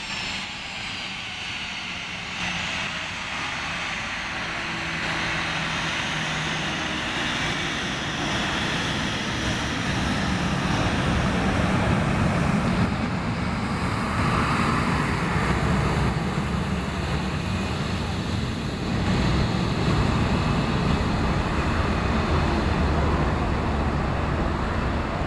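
Jet aircraft engines growing steadily louder as the plane nears, a faint falling whine at the start and a broad low rumble building through the second half.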